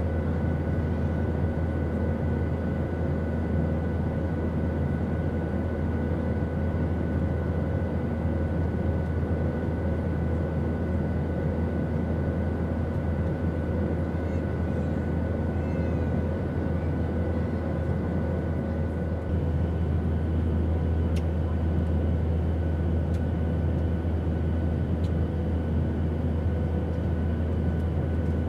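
Steady airplane noise used as white noise: a deep, even drone with faint steady hums above it. About two-thirds of the way through, a higher hum joins and the drone gets slightly louder; a few faint ticks follow.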